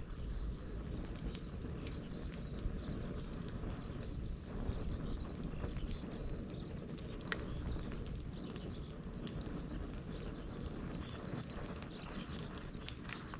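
Bonfire of dried bamboo and brush crackling, with a steady low rush of flame and scattered sharp pops and clicks, one stronger pop a little past the middle.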